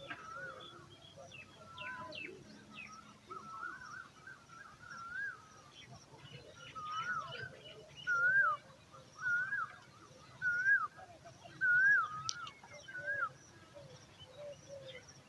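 Birds calling: a string of short whistled calls that rise and fall, coming about once a second and loudest in the second half, over lighter chirps.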